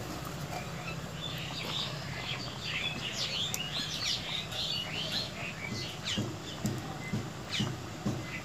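Birds chirping: a busy cluster of short chirps in the middle and a few single calls later, over a steady hiss, with a few soft knocks in the second half.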